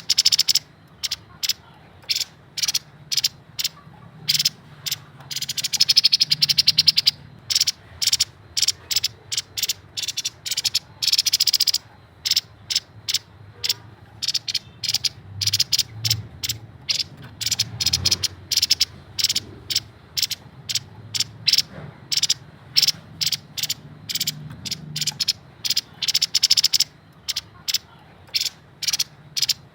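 Grey-headed babbler calling: a long run of short, sharp high notes, several a second, breaking into rapid rattling trills about 6 and 11 seconds in.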